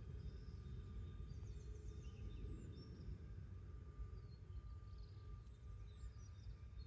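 Faint garden ambience: a steady low rumble with small birds chirping and trilling faintly now and then.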